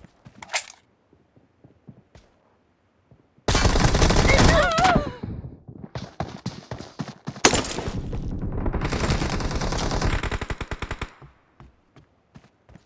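Video-game automatic gunfire. After a few quiet seconds there is a loud burst about three and a half seconds in. Rapid fire follows from about six to eleven seconds, with one sharper shot near the middle of it.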